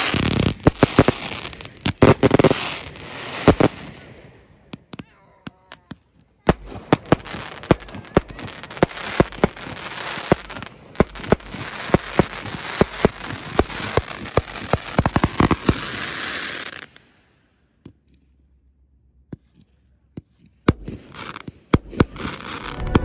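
Ground-launched fireworks and firecrackers going off in long, dense runs of rapid cracks and bangs with sparser pops between them. The noise stops abruptly for a few seconds of near silence, then scattered pops start again near the end.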